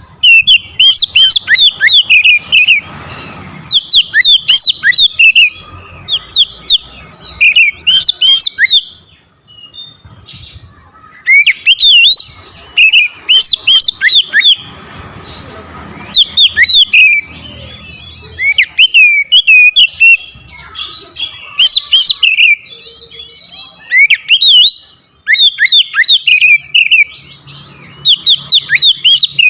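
Oriental magpie-robin (kacer) singing a loud, hard, aggressive song: phrases of rapid, sharp whistled notes, separated by short pauses.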